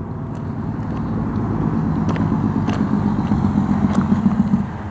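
Low engine rumble of a passing motor vehicle, growing louder over about four seconds and easing off near the end.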